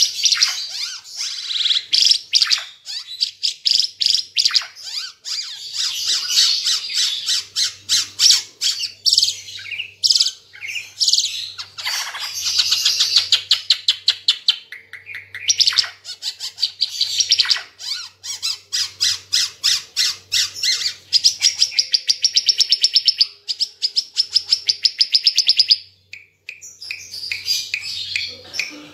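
An Ara Timor (red-eyed Timor songbird kept in Indonesia) singing loudly in a fast, continuous stream of rapid chirps and trills. The song breaks off briefly about 26 seconds in, then resumes.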